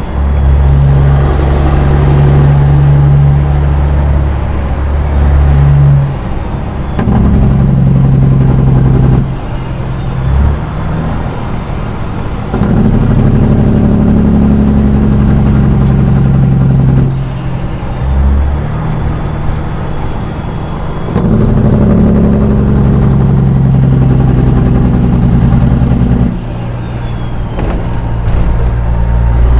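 Peterbilt 379 semi truck's diesel engine pulling through the gears: the engine note builds in each gear and drops away at each shift, about six shifts in all.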